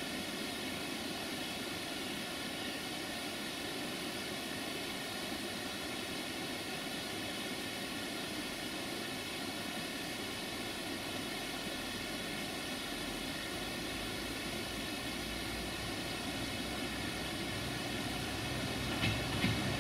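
Approaching diesel train: a steady engine drone, with a low rumble building over the last several seconds and short horn toots just before the end.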